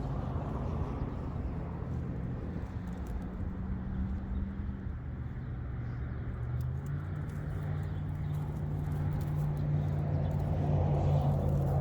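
Engine running steadily at a low, even pitch, its note shifting slightly about halfway through, with faint light clicks and rattles over it.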